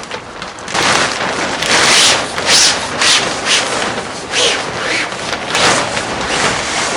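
Sail cloth rustling and rubbing against the mast in irregular surges as the sail is worked along it.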